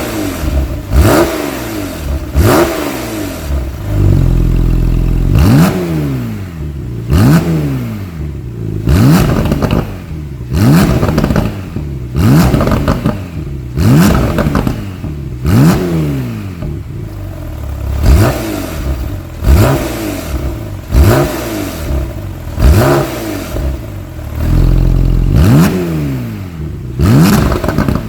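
Porsche 911 Targa GTS flat-six with an Akrapovic aftermarket exhaust, free-revved over and over, over a dozen quick throttle blips that rise and fall, with short sharp cracks on many of them. Twice it drops back briefly to a steady idle.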